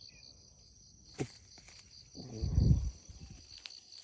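Insects chirping steadily, a high pulsing note repeating about five times a second. About a second in there is a sharp click, and just after two seconds a louder, muffled low sound lasts about half a second.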